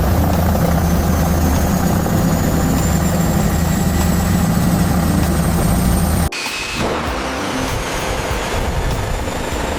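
Airbus H125 helicopter's turboshaft engine running, a steady high whine over a low drone, the whine slowly rising in pitch. About six seconds in the sound cuts abruptly to a slightly quieter run, with the whine continuing.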